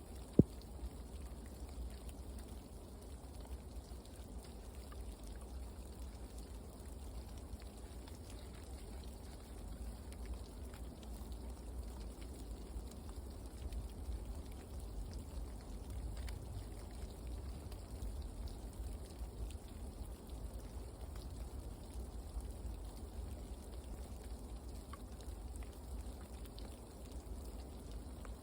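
Light rain falling steadily, with a low rumble beneath and scattered faint ticks of drops. One sharp click about half a second in.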